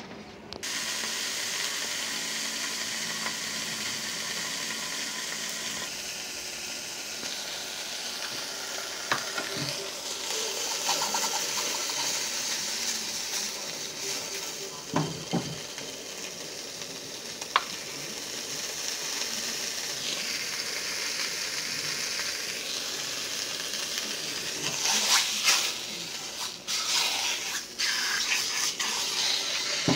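A slice of beef bologna sizzling in hot oil in a frying pan: a steady frying hiss, with a few sharp clicks and louder bursts near the end.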